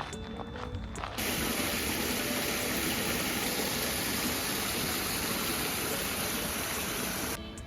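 A steady rushing noise that starts suddenly about a second in and cuts off just before the end.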